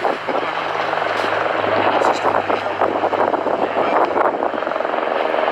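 A steady engine drone holding one pitch, over a continuous noisy rush.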